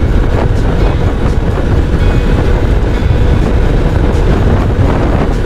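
Heavy wind rush on a helmet-mounted microphone, with a motorcycle engine running steadily underneath as the bike cruises at over 80 km/h.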